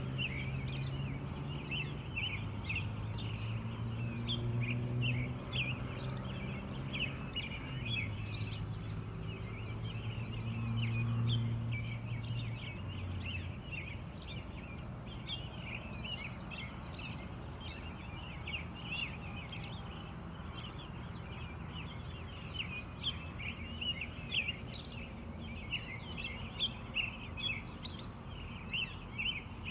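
Dawn chorus of many wild birds, with a dense, continuous overlapping chirping over a steady high-pitched whine. A low steady drone underneath fades out about halfway through.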